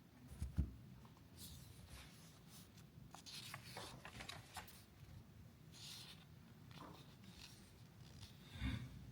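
Faint, intermittent scratching and rustling, with a low thump about half a second in and another near the end.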